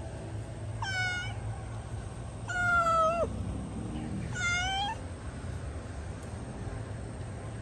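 A cat meowing three times. The second meow is the longest and loudest, dropping in pitch at its end.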